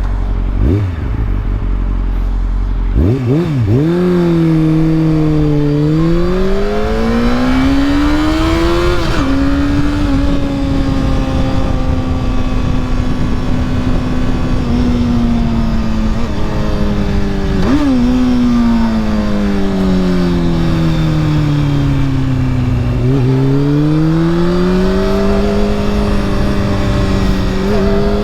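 Honda CBR sport bike engine ridden through traffic, under a low rumble for the first few seconds. About three seconds in the engine pitch climbs under acceleration and holds steady. It breaks briefly twice, sinks as the bike slows, then rises again near the end.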